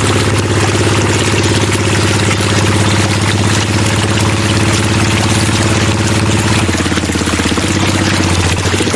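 Small engine of a miniature model water pump running steadily with a fast pulsing note; the note shifts lower near the end.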